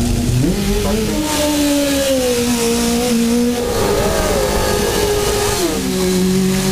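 Motorcycle engine revving. The pitch climbs sharply about half a second in, holds high with small rises and falls, then drops about two-thirds of the way through and settles at a steadier, lower speed.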